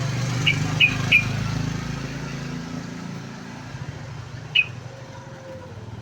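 Yellow-vented bulbul giving short sharp chirps: three in quick succession about half a second in and one more near the end, over a low rumble that fades after about three seconds.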